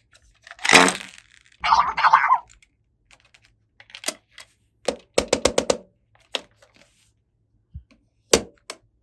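Small plastic toy pieces being handled: sharp clicks and taps, a quick run of clicks about five seconds in, and two short scraping rustles near the start.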